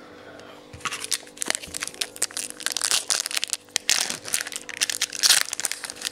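Crinkling and crackling of a foil trading-card pack wrapper being handled, a dense run of sharp crackles starting about a second in.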